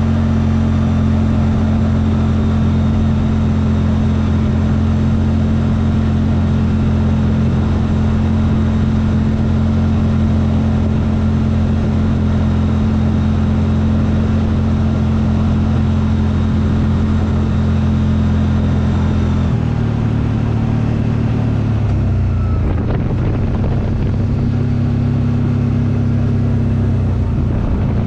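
CFMoto vehicle engine running at a steady speed while under way. About two-thirds of the way through, its pitch drops and wavers briefly as the speed changes, then holds steady again.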